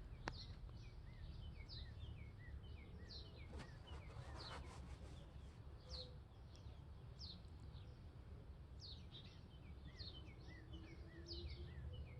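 Faint bird song from an unidentified bird: a repeated series of short, high chirps that slide downward in pitch, mixed with lower, quick rising-and-falling notes, going on throughout.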